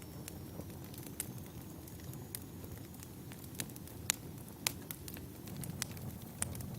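Wood fire burning: a steady low rumble with irregular sharp crackles and pops, a few a second at most, the loudest two pops coming about four and four and a half seconds in.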